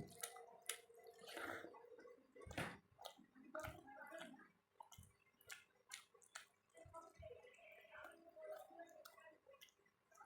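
Faint close-up eating sounds: wet chewing and lip smacks of rice mixed with dal, with many short irregular clicks.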